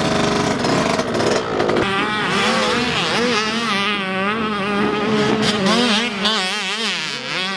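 Motocross bike engine revving hard, its pitch rising and falling again and again as the rider works the throttle and shifts.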